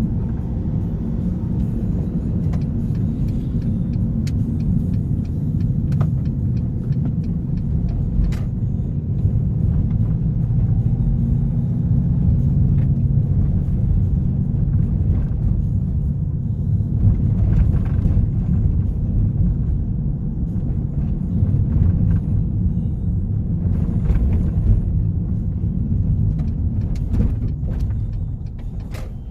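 Car driving at a steady pace: a low engine and exhaust drone with road noise and a few light clicks, easing off near the end.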